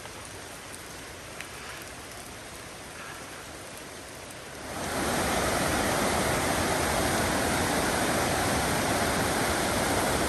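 Rushing water of the Mossman River through the gorge: a steady rush that grows much louder about halfway through, over a softer hiss before it.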